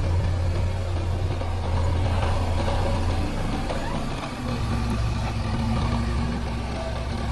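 JCB 3DX backhoe loader's diesel engine running steadily as it works, its note dipping and settling lower about four seconds in.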